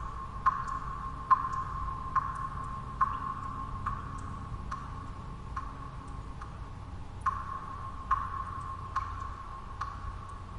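Water drops falling one at a time at a steady pace, a little more than one a second, each a short plip with a brief ringing tone. Some drops are fainter than others. Under them runs a low, steady white-noise hum.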